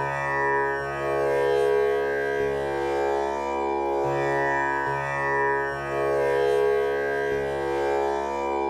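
Tanpura drone tuned to C# (male scale), its four strings plucked one after another in a slow repeating cycle about every four seconds. Each pluck rings on into a continuous shimmering drone rich in overtones.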